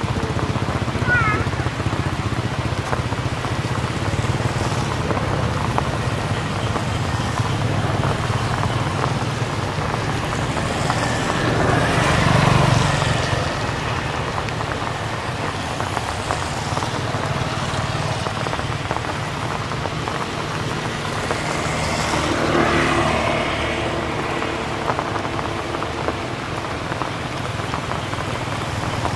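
Steady rain, with two vehicles passing on a nearby road, about twelve and twenty-two seconds in. Faint voices can be heard under the rain.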